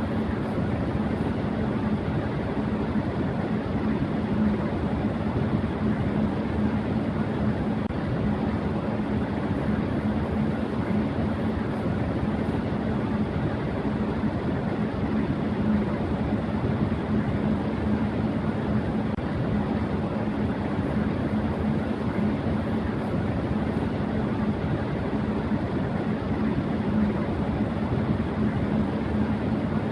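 Electric fan running steadily at high speed: a constant rush of air with a faint steady hum from the motor.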